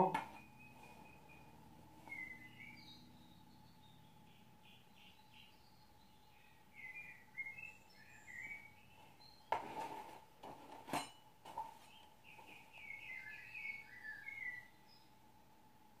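Small birds chirping faintly in three short runs of quick high notes, over a faint steady hum. Two sharp knocks come near the middle, about a second and a half apart.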